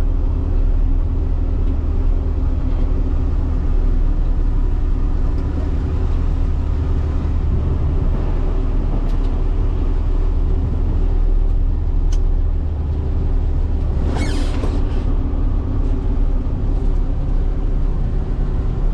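Diesel engine of a heavy farm machine running steadily, heard from inside the cab as a deep drone. A brief hiss comes about fourteen seconds in.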